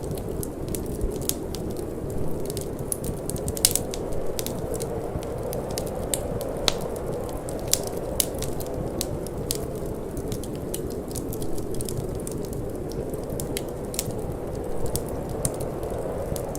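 Wood fire in a fireplace crackling, with irregular sharp pops and snaps, the strongest a few seconds in, over a steady low rush of wind.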